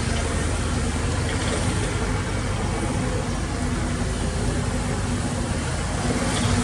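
Heavy diesel earthmoving machinery running steadily, a deep engine rumble with a steady whine over it in the second half.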